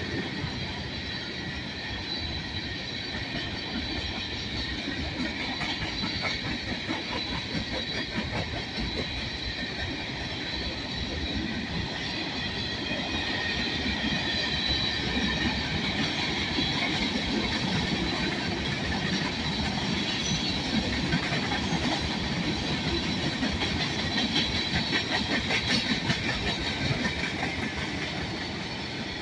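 Freight cars rolling past: a steady rumble of steel wheels on rail with clickety-clack over the joints, a little louder in the second half.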